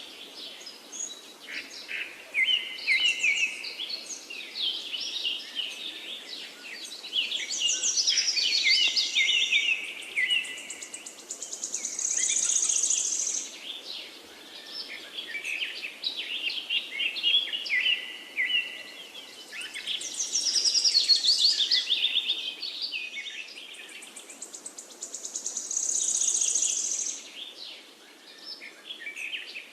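Several songbirds singing and calling over one another in quick chirps and warbles. High buzzy trills swell up and fade about every five to nine seconds, over a steady soft background hiss.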